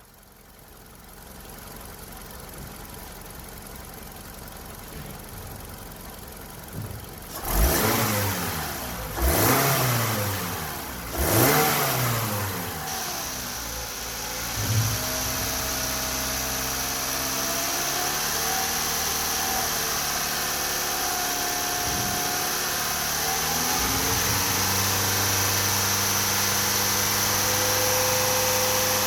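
Toyota 2.5-litre four-cylinder engine from a 2012 Camry being tested: revved three times in quick blips, about seven to twelve seconds in. It then settles into a steady idle with a faint high whine over the running.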